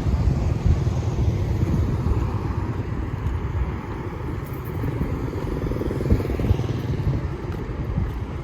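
Street traffic dominated by motorbikes passing, a continuous low rumble without a break.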